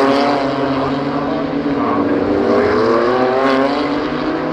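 Several BMW M2 CS race cars' twin-turbo straight-six engines running at racing speed, their engine notes overlapping and rising and falling as they accelerate and pass.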